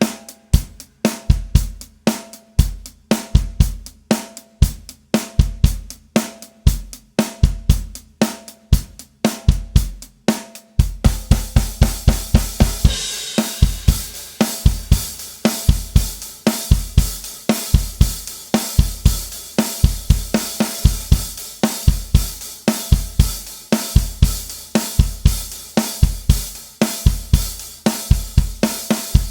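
Drum kit playing a steady rock beat on bass drum, snare and hi-hat. About eleven seconds in, a crash is struck and the cymbals open into a continuous wash while the groove carries on.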